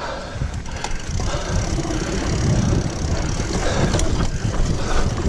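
Mountain bike on the move over a trail, with steady wind rumble on the action camera's microphone and the rattle and sharp clicks of the bike over rough ground.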